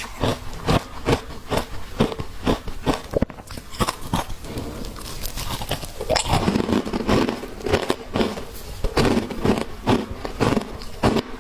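Close-up crunching of shaved ice being bitten and chewed: sharp crunches about three a second, easing off briefly near the middle, then denser, grinding chewing in the second half.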